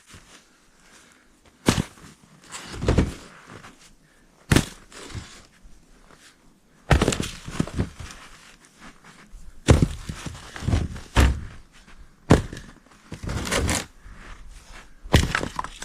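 Irregular thunks and cracks of firewood and dead branches being broken and handled, about a dozen sharp knocks with crunching in between.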